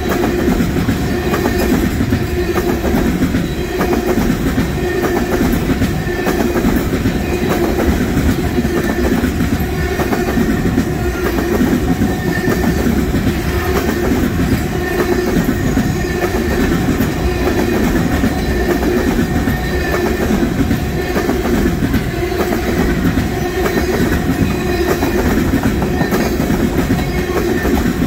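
Freight train of oil tank cars rolling past at close range: a steady, loud rumble and rhythmic clatter of steel wheels over the rail joints.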